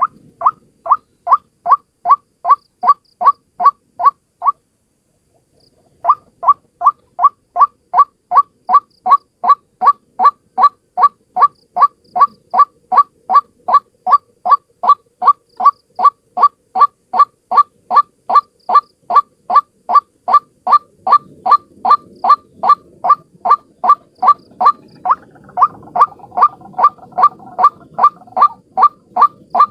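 White-breasted waterhen calling: a long run of short, loud notes repeated about two a second, a lure call for trapping. The run breaks off briefly about four seconds in, then resumes. Near the end a fainter rustling background and a second overlapping call come in.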